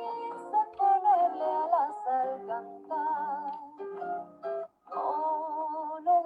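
A Spanish-language ballad played by a duo: a voice singing a melody with vibrato over instrumental accompaniment. The sound cuts out briefly about three-quarters of the way in.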